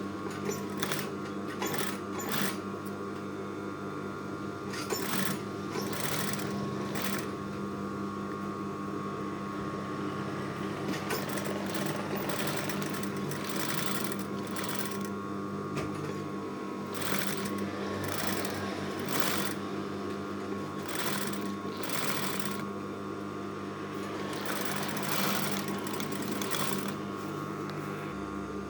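Sewing machine stitching an invisible zipper into a garment, running steadily with a constant hum and frequent short rattling pulses.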